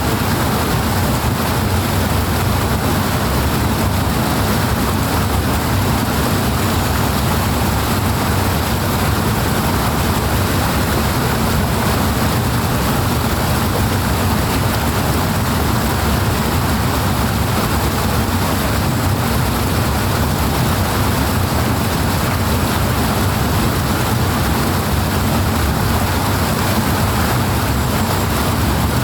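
Powerful rushing water, a loud, steady, unchanging rush with a deep rumble underneath.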